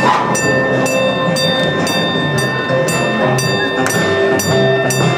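Amusement-park passenger train cars rolling past while a railroad crossing bell rings about twice a second. Christmas music plays in the background.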